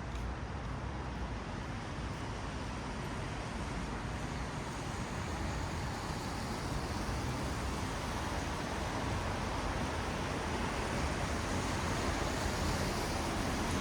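Traffic on a wet city road: a steady hiss of tyres on wet asphalt with the low rumble of passing vehicles, slowly growing louder toward the end.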